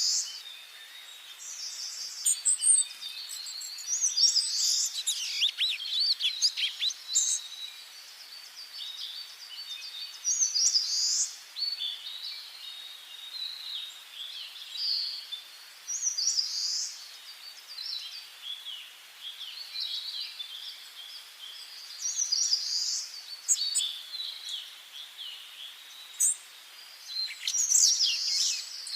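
Several songbirds singing in a forest: short, high-pitched chirping and warbling phrases every second or two, over a faint steady hiss.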